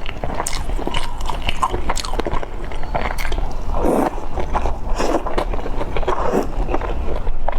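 Close-miked chewing of steamed dumplings: a steady run of soft, wet mouth clicks and smacks, with a few fuller mouth sounds partway through.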